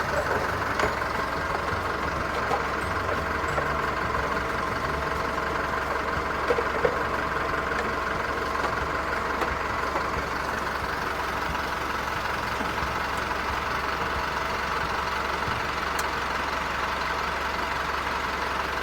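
24-volt truck's engine idling steadily, running on its own after being jump-started from a flat battery.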